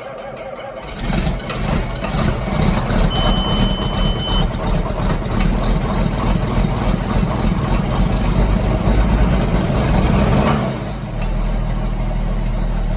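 John Deere 4450's turbocharged six-cylinder diesel on a cold start, without its block heater plugged in: the starter cranks and the engine catches about a second in. It runs loud, with a brief high steady tone for about a second and a half, then settles to a quieter, steadier idle about eleven seconds in.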